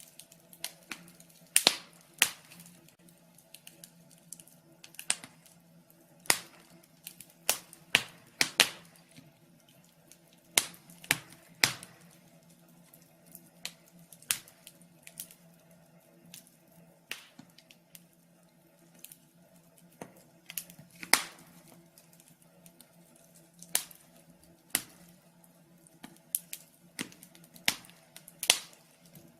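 Wood fire crackling in a fireplace: irregular sharp pops and snaps, about one or two a second and some much louder than others, over a faint steady hum.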